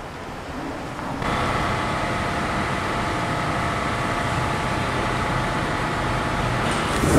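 SUV engine running at a steady idle, a constant low hum with several held tones, setting in about a second in.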